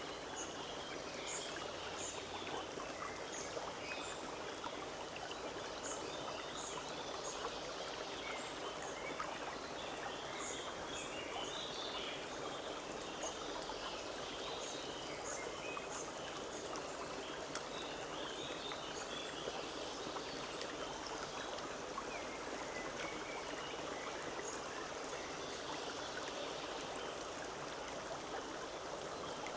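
Forest stream flowing steadily, with small birds chirping in short calls over the water sound now and then.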